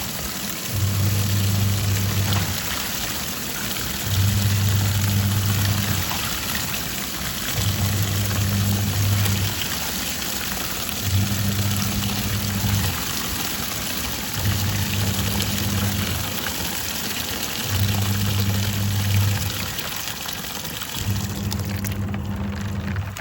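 Twin-tub washing machine in its wash cycle: water sloshing and churning against the load, while the pulsator motor hums in runs of about a second and a half, stopping briefly between runs as it reverses direction, about seven times.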